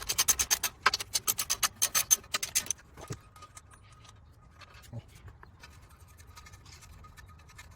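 Ratchet wrench clicking in a quick, even run for nearly three seconds, then only a few scattered clicks: undoing the clutch pressure plate bolts.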